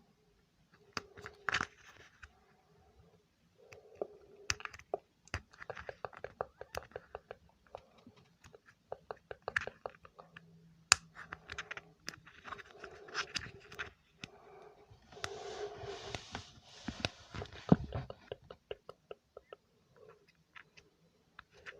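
Close-miked ASMR trigger sounds: irregular sharp taps and clicks mixed with short bursts of scratching and crinkly rustling, busiest and loudest for a few seconds near the end.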